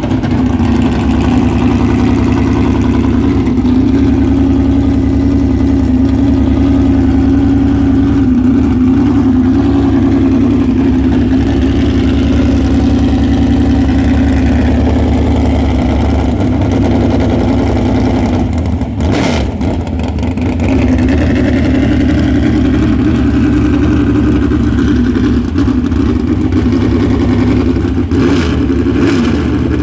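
A car engine running at fairly steady revs, with a few brief knocks about two-thirds of the way through and again near the end.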